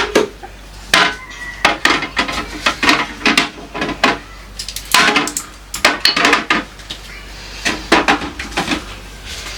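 Food jars and containers knocking and clinking as they are handled and set down on refrigerator shelves, in irregular clusters of sharp clacks.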